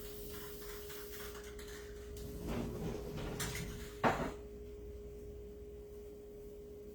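Household handling noises with a hiss, a rustle and one sharp knock about four seconds in, over a steady electrical hum.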